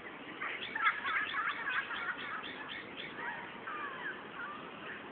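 Bird calling: a quick run of short chirps, about four a second, for some two and a half seconds, followed by a few slurred whistled notes.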